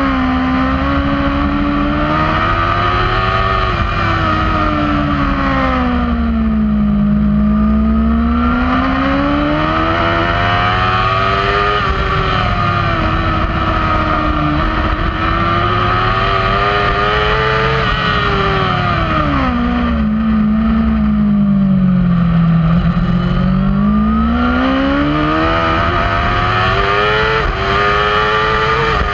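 Kawasaki superbike's inline-four engine at racing speed, heard from onboard: the pitch climbs and steps down briefly at each upshift. It falls away twice under braking and downshifting for corners, about six and twenty seconds in, then rises hard again on the throttle.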